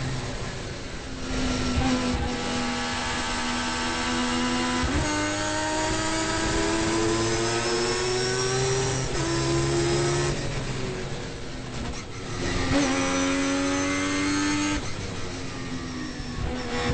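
Turbocharged 20B three-rotor rotary engine of a Mazda RX-7 race car, heard from inside the car under hard acceleration: the engine note climbs in pitch gear after gear, with a brief drop at each upshift, and eases off about fifteen seconds in.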